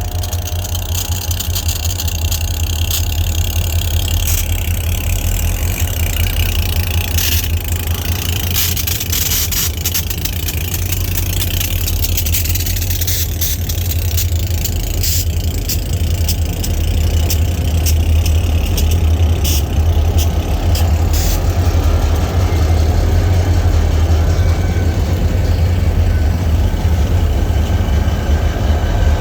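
EMD SD40-2 diesel-electric locomotives' 16-cylinder two-stroke engines running with a deep, steady rumble, growing louder about two-thirds of the way through. Scattered sharp clicks and knocks come over the rumble midway through.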